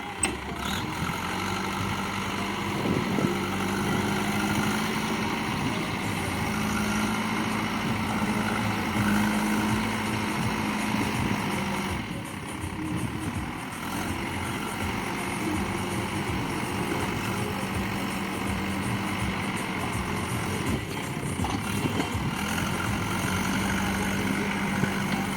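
Heavy diesel machinery engine running steadily, its note easing briefly about halfway through.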